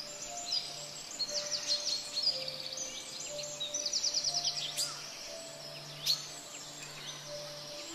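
Birds chirping, with fast rattling trills, over soft held music notes and a steady hiss of noise. Two sharp clicks come in the second half.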